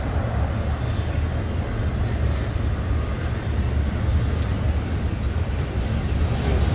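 Intermodal freight train rolling past, a steady low rumble.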